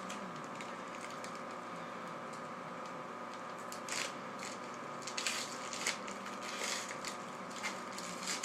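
Packaging of a Yu-Gi-Oh! booster box being handled and opened, with scattered short crinkles and crunches of plastic wrap and cardboard over a steady background hum.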